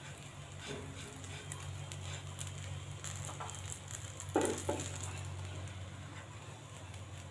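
Sandwich pieces frying in a little oil on a nonstick tawa, with a faint sizzle and small ticks as they are turned. A short knock about four seconds in marks a piece being flipped with the spatula.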